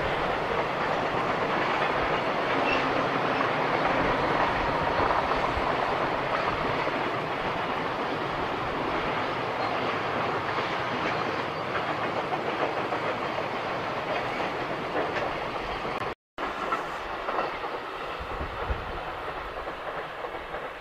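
Container freight train's wagons rolling past on a curve, a steady rumble of wheels on rail that fades as the last wagons go by. After a sudden break near the end, a quieter electric commuter train passing.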